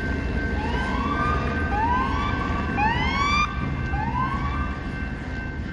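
Police car sirens sounding in repeated rising sweeps, about one a second and partly overlapping, dying away about four and a half seconds in. A steady low rumble runs underneath.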